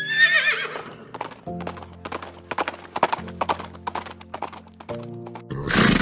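Horse whinnying: one wavering call that falls in pitch over about a second. A run of irregular hoof clops follows, and a loud snort comes near the end, all over background music.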